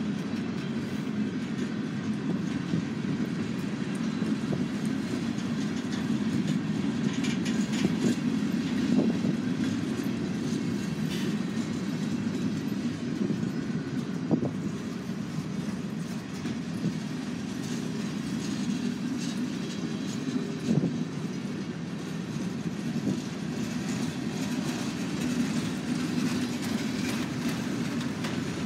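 Freight cars of a long train (hoppers, boxcars and centerbeam flatcars) rolling past: a steady rumble of steel wheels on rail with light clatter and a few short squeals about a third of the way in, near the middle and about two-thirds through.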